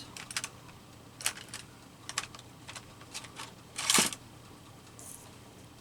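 Tweezers and paper cutouts being handled on a desk: a scatter of light clicks and taps, with one louder scrape about four seconds in.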